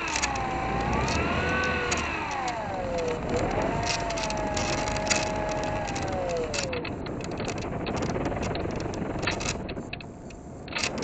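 Whine of a small electric RC plane's brushless motor (RCX NK1103, 10000 KV) spinning a 3-inch propeller, picked up by the onboard camera. Its pitch rises and falls, holds steady for a couple of seconds, then drops away about two-thirds of the way through. After that a rushing noise with scattered clicks is left.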